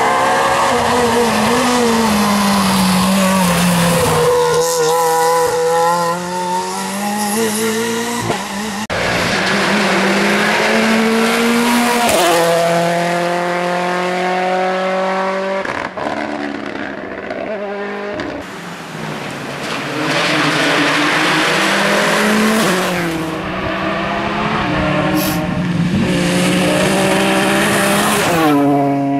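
Rally cars at racing speed, one after another. Each engine revs high and drops back with gear changes and braking as it passes.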